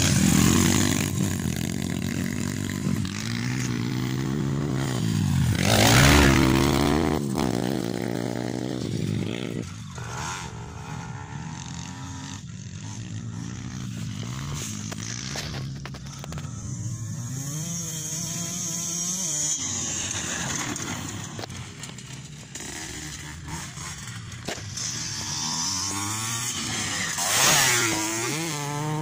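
Motocross bikes racing, their engines revving up and dropping back as they go around the dirt track. The loudest passes come about six seconds in and near the end.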